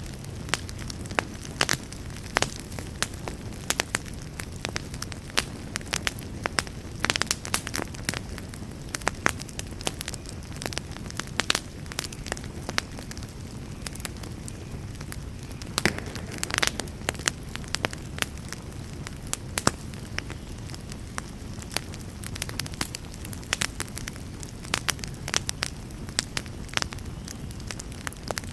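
Wood campfire crackling, with sharp snaps and pops at irregular moments over a steady low rush.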